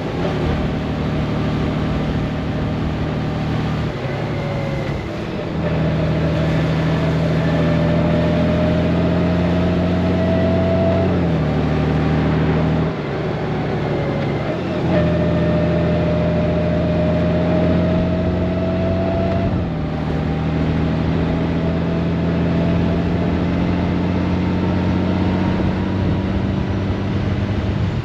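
Honda Gold Wing's flat-six engine running under way, with steady wind and road rush. Its note slowly climbs, then steps down at several gear changes of the dual-clutch transmission, about 5, 11, 13, 15 and 20 seconds in.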